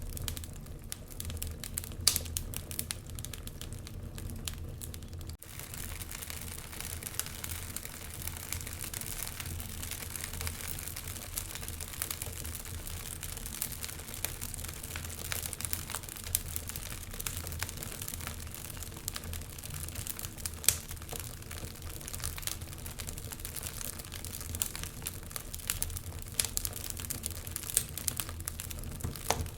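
Wood fire burning in a fireplace, crackling with dense irregular pops over a steady low rumble. A few sharper pops stand out, about two seconds in and again around twenty seconds in.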